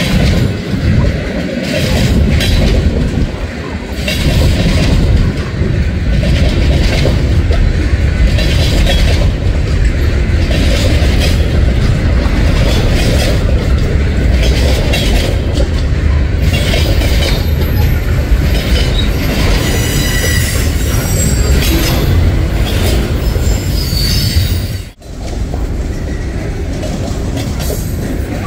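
Freight cars rolling past close by: steady wheel rumble with clacking over the rail joints, and thin wheel squeal from the passing cars in the second half. The sound drops out briefly about three-quarters of the way through.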